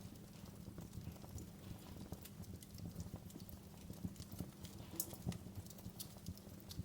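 Wood fire crackling: irregular sharp snaps and pops over a low, steady rumble, with one louder snap about five seconds in.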